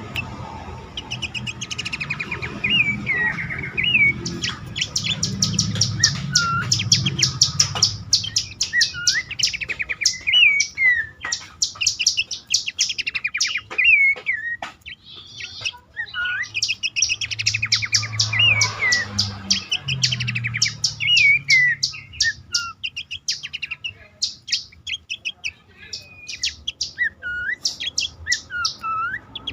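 Pelanduk semak (Horsfield's babbler) calling: long runs of fast chattering notes mixed with short, slurred whistles that bend up and down, repeated over and over.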